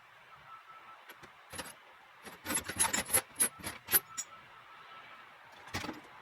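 Tie-down chain rattling and clinking as it is handled, with a quick irregular run of sharp metallic clinks about two seconds in and one more clink near the end.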